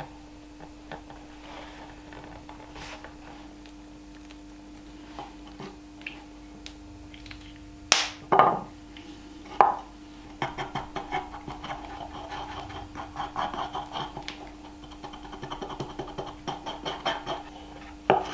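Workshop handling sounds over a steady low hum: a few sharp knocks about halfway through, then a long run of quick, irregular clicking and rattling.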